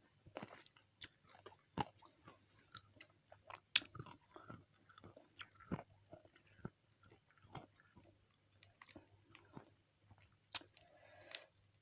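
A person chewing and biting into a meal of ayam penyet close to the microphone: soft, irregular wet mouth clicks and small crunches at a low level.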